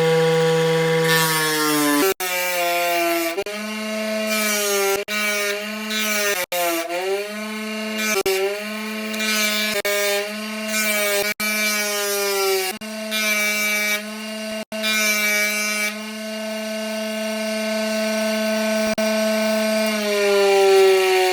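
Electric power tool motor running with a steady whine that sags in pitch and recovers again and again as it is pressed into the work and eased off, as in grinding or sanding rusty metal. The sound breaks off abruptly several times.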